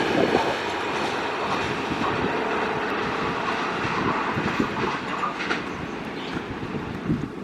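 Coaches of the Goa Rajdhani Express rushing past at speed, their wheels clattering rapidly over the rails, the sound slowly fading as the train draws away.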